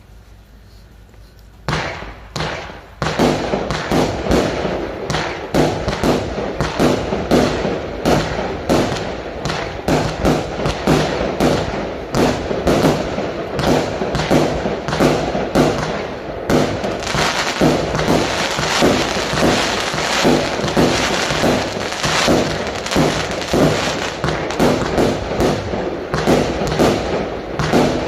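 A 100-shot firework barrage cake firing. Shots begin about two seconds in and follow in a rapid, unbroken volley of launch thumps and bursts, growing denser and more crackly about halfway through.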